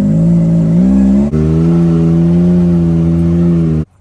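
Engine held at high, steady revs, with a brief dip a little over a second in before settling slightly higher; the sound cuts off suddenly near the end.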